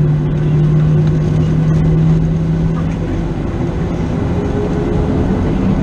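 Cabin noise inside a Boeing 737-700 with its CFM56-7B engines running, most likely while taxiing after landing. A loud, steady rumble carries a strong low hum that fades about three seconds in, with a fainter, slightly higher tone rising near the end.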